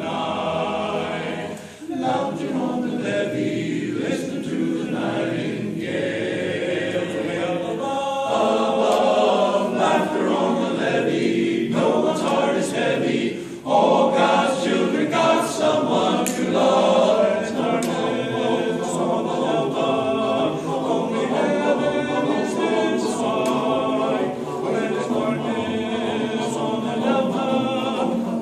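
A choir singing a song together in chorus, with short breaks between phrases about two seconds in and again near the middle.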